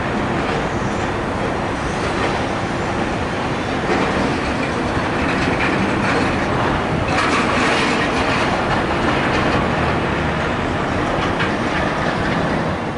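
A train running on rails: a steady rumble with faint wheel clatter.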